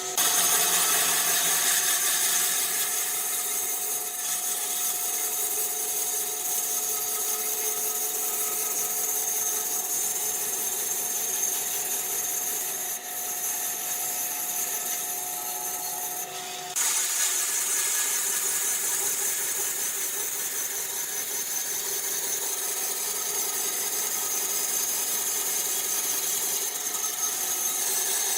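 Woodworking power machinery running with a steady high whine over a hiss. The sound changes abruptly at the start and again a little past halfway.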